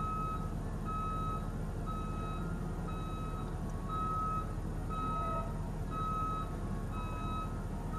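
A vehicle's reversing alarm beeping steadily at one pitch, a short beep about every second, over a low engine hum.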